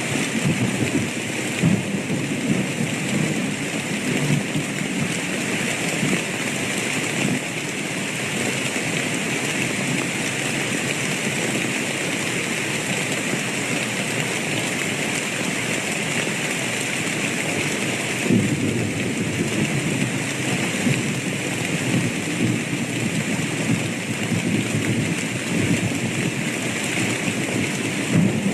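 Steady heavy rain, with low thunder rumbling near the start and again from about two-thirds of the way through.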